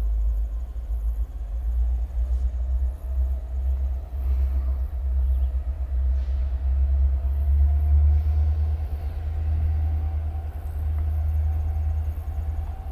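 Canadian National diesel freight train running in the distance: a deep, steady rumble with a faint engine tone above it.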